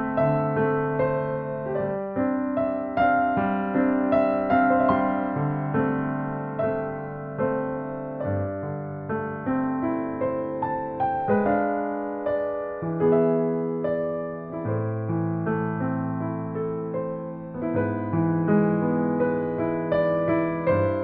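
Background music: a gentle electric piano playing held notes and chords, each struck and fading away, with a steady pulse of new notes.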